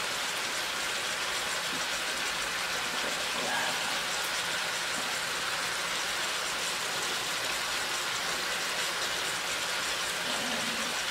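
Chicken pieces sizzling steadily in a hot wok, an even, rain-like hiss.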